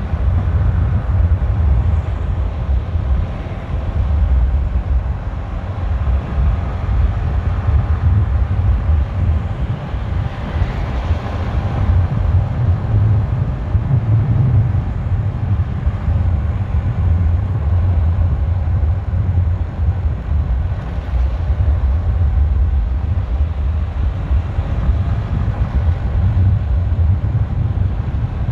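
Motorcycle riding at road speed: a heavy, steady wind rumble on the rider's microphone over engine and road noise.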